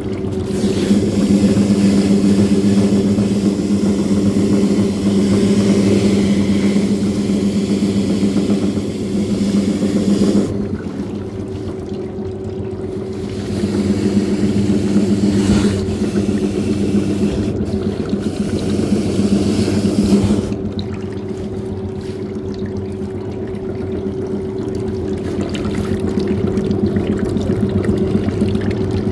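Washing machine running a shoe wash: its motor hums steadily while water churns and splashes in the drum. The water noise swells over two long spells, the first lasting about ten seconds and the second from about a third of the way in to two-thirds of the way in, and is quieter between and after them.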